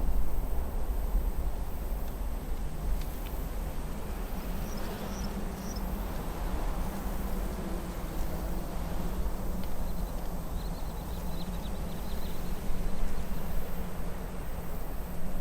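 Outdoor nature ambience: a steady low rumble with a few faint, high bird chirps about five seconds in and a short high trill a few seconds later.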